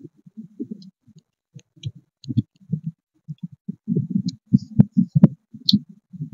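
Close-miked chewing of food: irregular soft, low thumps and smacks with small wet mouth clicks, busier in the second half, with two sharp clicks about five seconds in.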